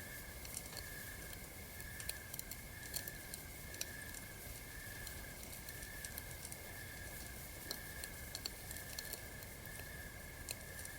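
Campfire crackling, with sharp irregular pops and snaps, over a steady, pulsing high chirp that repeats about one and a half times a second.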